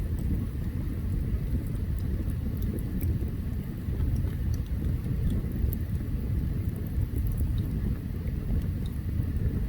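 Open campfire burning, with scattered sharp crackles and pops from the wood over a steady low rumble.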